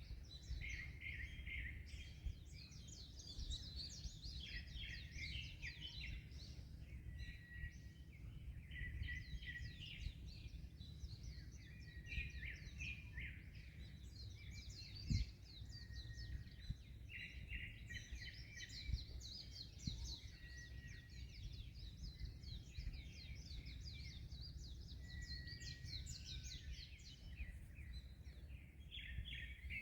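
Several small birds chirping and trilling in busy overlapping phrases, with one short clear whistled note recurring every few seconds, over a steady low rumble of wind and sea waves. One brief thump about halfway through.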